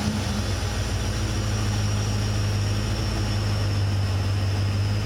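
Car engine idling steadily with a constant low hum.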